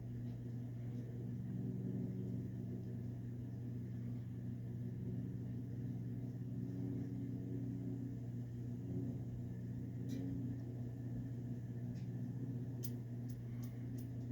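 Westinghouse InstaLock 42-inch ceiling fan running, its motor giving a steady low hum, with a few faint ticks near the end.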